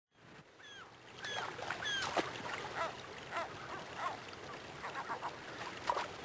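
Birds calling: short chirping calls, repeated irregularly, over a faint steady hiss. The sound fades in at the start.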